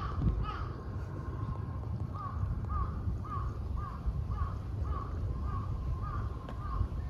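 A crow cawing in a quick run of about ten short, repeated calls, roughly two a second, over a low rumble.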